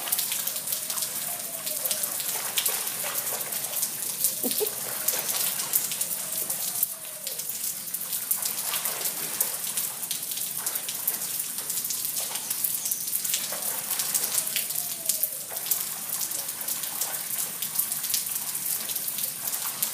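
Steady rain falling, a dense hiss of countless drop ticks, with a few faint wavering tones underneath now and then.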